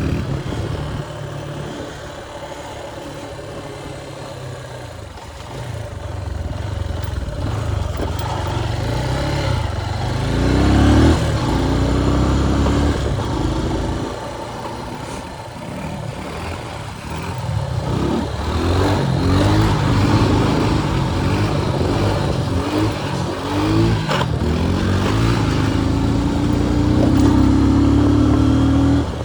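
Motorcycle engine running under way, its pitch rising and dropping several times as it accelerates and eases off.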